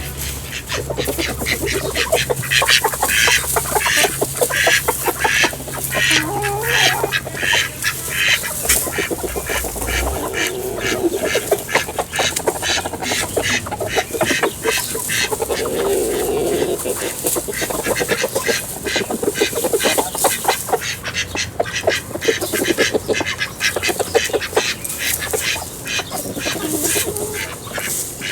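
A flock of ducks quacking in rapid, continuous chatter.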